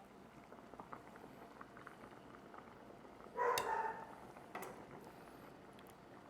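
A dog barks once, about halfway through, over a faint steady background; a short sharp click follows about a second later.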